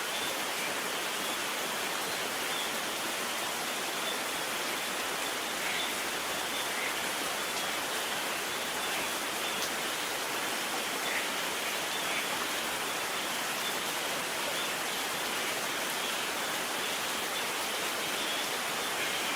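Steady rain falling, an even hiss with a few separate drops ticking out of it now and then.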